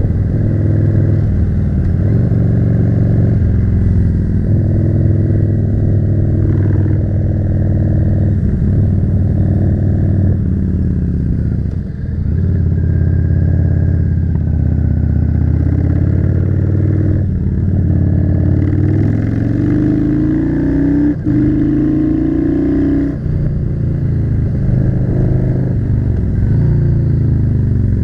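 Yamaha cruiser motorcycle's V-twin engine running under way, held steady for the first ten seconds or so. It dips briefly near the middle, then climbs in pitch through a couple of quick gear changes in the second half.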